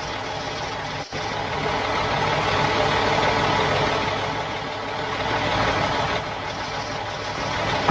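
Engine sound effect for an animated monster truck, running steadily. It breaks off for an instant about a second in, then swells louder for a couple of seconds before easing back.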